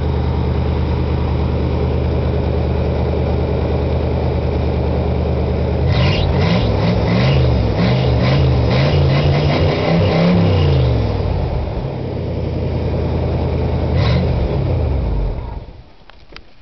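Buick engine with a straight-piped exhaust idling steadily, then revved up and down repeatedly for about five seconds, blipped once more, and dying away near the end.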